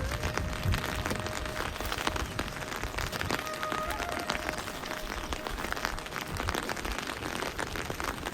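Steady rain falling, a dense patter of many individual drops hitting surfaces.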